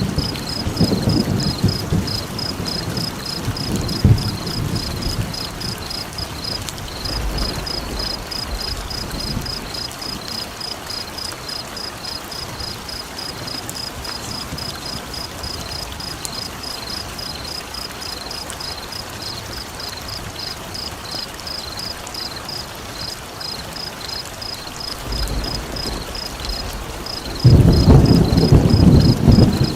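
Steady rain with rolling thunder, which swells at the start and again near the end. Through it runs a high, rapid, evenly pulsed chirping call.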